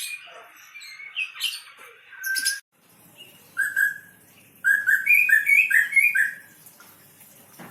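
White-rumped shama (murai batu) singing: quick, varied chattering phrases, a sudden short break, then a run of about six loud, clear whistled notes near the middle.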